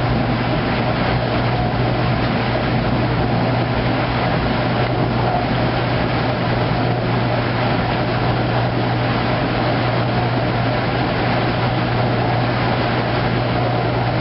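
Kenmore top-load washing machine running steadily through its heavy duty cycle, with a constant low motor hum under even mechanical noise.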